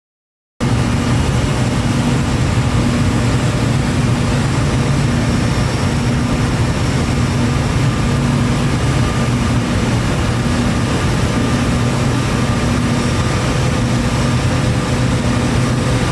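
Large power-plant generating unit running at full output, a loud, steady industrial drone with a deep hum. It cuts in just after the start.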